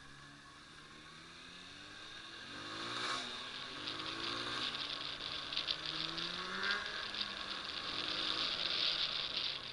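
Motorcycle engine accelerating, its pitch climbing and falling back several times as it shifts up through the gears, with a rushing noise that grows louder; the sound drops away abruptly near the end.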